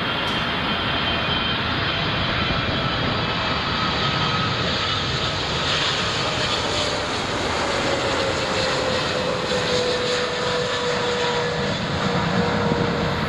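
Jet airliner engines passing close by on approach, a steady roar with a whine that slowly falls in pitch.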